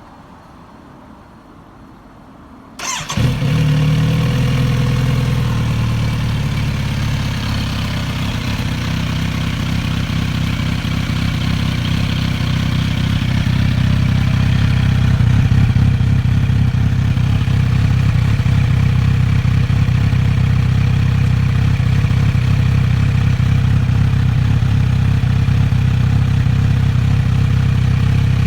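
Kawasaki Z900RS Cafe's inline-four engine, fitted with a stainless-steel Yoshimura slip-on muffler, starting about three seconds in and then idling steadily.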